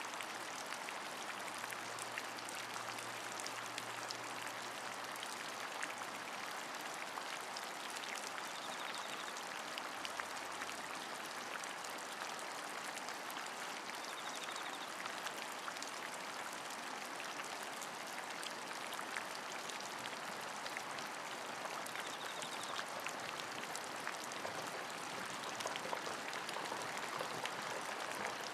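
Steady rain: an even hiss of rainfall with many small, sharp drop ticks scattered through it.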